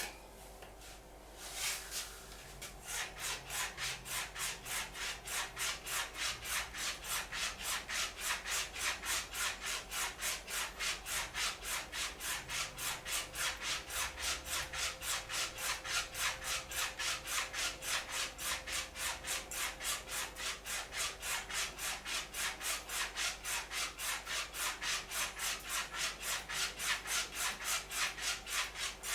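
Straight razor being stropped on a linen strop: quick, even back-and-forth scraping strokes, about three a second, starting about three seconds in after a couple of light knocks.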